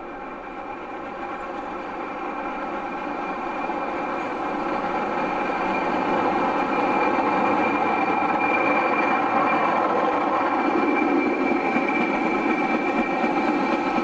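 A railway locomotive approaching, its running sound growing steadily louder over the first seven seconds or so and then holding steady and loud.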